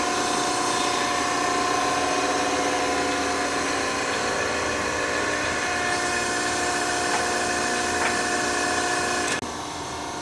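Electric air compressor running steadily with a hum and a high whine, cutting off abruptly about nine seconds in as the air-ride system finishes airing up.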